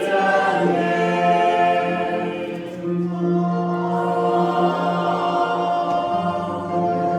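Choir singing a slow hymn, several voices holding long chords over a steady low note.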